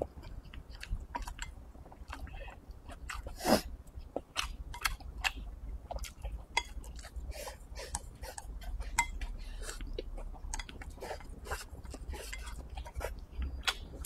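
A person chewing rice and braised pork, with wooden chopsticks clicking and scraping against a ceramic bowl in many short irregular clicks; one louder knock about three and a half seconds in.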